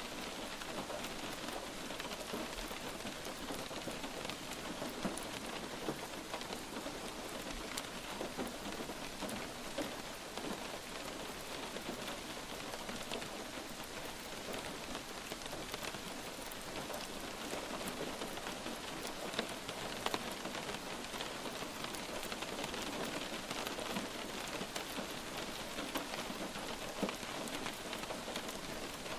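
Light rain falling steadily: an even hiss of rain with many small, sharper drop hits scattered through it.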